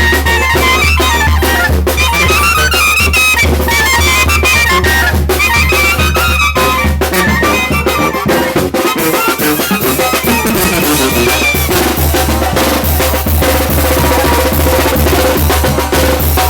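Mexican wind band (banda) playing: brass and clarinets carry a melody over bass drum and cymbals. About twelve seconds in the melody drops out and the drums carry on alone.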